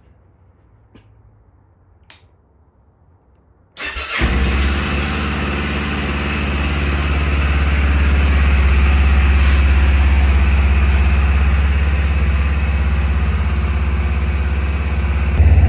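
Kawasaki Ninja 500 parallel-twin engine cold-started after four months' storage in freezing weather: a few faint clicks, then a brief crank and it catches about four seconds in and runs steadily. Near the end the low engine sound gets suddenly louder.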